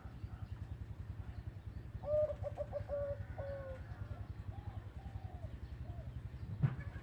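Zebra dove cooing: a quick run of short, clipped notes about two seconds in, followed by a few softer, drawn-out coos. A steady low hum runs underneath, and there is a short low thump near the end.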